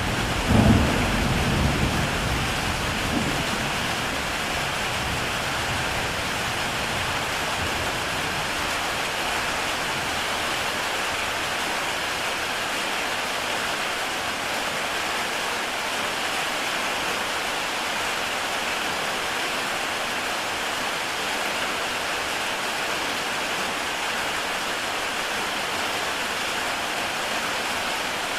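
Heavy rain pouring steadily on a tile roof. A rumble of thunder with a loud peak about half a second in dies away by about four seconds in.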